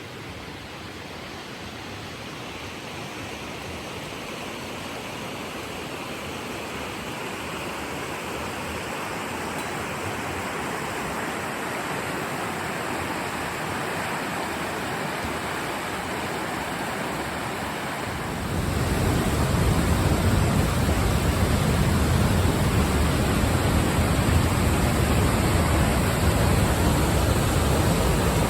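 Rushing water of a waterfall, a steady roar that grows slowly louder, then turns suddenly louder and deeper about two thirds of the way in.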